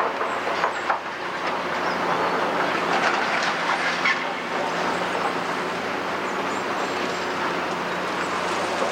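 Large hydraulic excavator's diesel engine running steadily under load, with scattered clanks and scraping of demolition rubble being moved.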